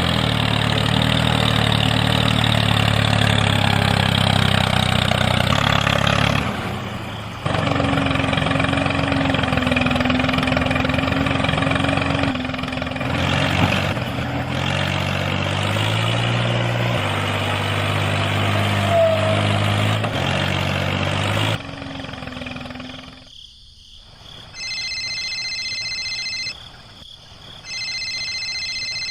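A tractor-type engine running steadily, its pitch and character shifting abruptly a few times before it stops. Near the end come two steady electronic beeps, each about two seconds long.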